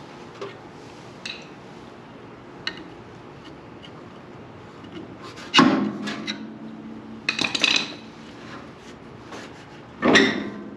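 Metal parts and tools being handled while a belt and pulley are fitted on a sawmill head. A few light clicks come first, then three loud clanks with scraping and some ringing, about midway, around the seven-to-eight-second mark and near the end.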